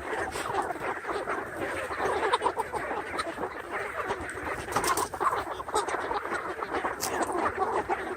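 A flock of chickens murmuring together, many soft calls overlapping in a continuous chatter, as the birds huddle and settle to roost for the night.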